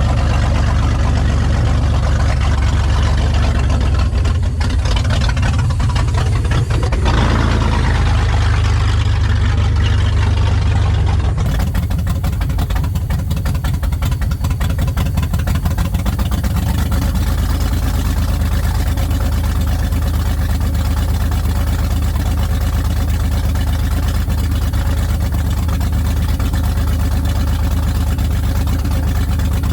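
Open-exhaust idle of a 2001 Oldsmobile Bravada's 4.3-litre V6, running steadily with its oil drained and no coolant. About 11 seconds in, the sound turns sharper and more crackly.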